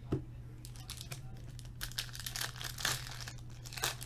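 Hockey trading-card pack wrappers crinkling and tearing as packs are opened by hand, in a run of short rustles that is busiest in the second half.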